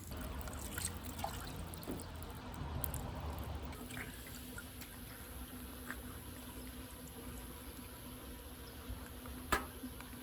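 A pot of bamboo shoots boiling hard over a campfire, with a steady bubbling of water and faint scattered ticks, and one sharp crack near the end.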